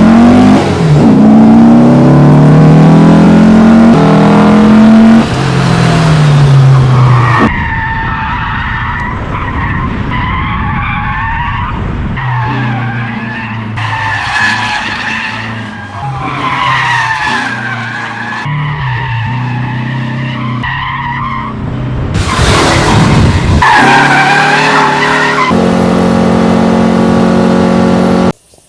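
Air-cooled VW Beetle flat-four (85.5 mm bore, 69 mm stroke, twin 40 IDF carburettors) through an SS143 exhaust, revving hard with the pitch climbing repeatedly. Then the tyres squeal through drifts over the engine note, the sound switching abruptly several times, and a steady engine note cuts off suddenly near the end.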